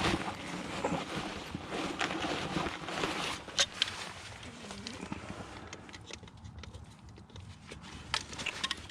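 Scattered clicks and light knocks of objects being handled, busier through the first few seconds over a rustling hiss, then sparser and quieter after about four seconds.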